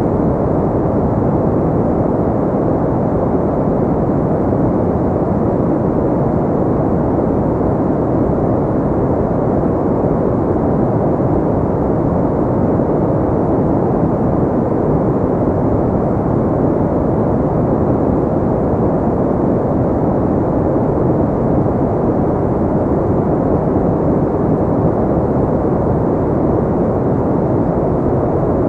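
Steady pink noise: an even, unbroken hiss, dull and deep with little treble, holding one level throughout.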